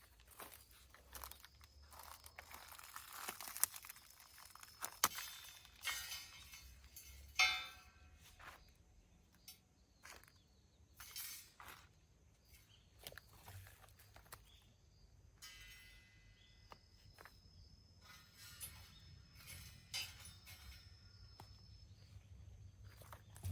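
Irregular clicks, knocks and light clinks with rustling, as of camping gear being handled and set down, mixed with footsteps.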